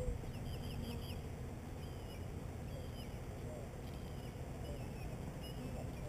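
A songbird calling in short, downward-sliding chirps, repeated every second or so, over a low, steady rumble.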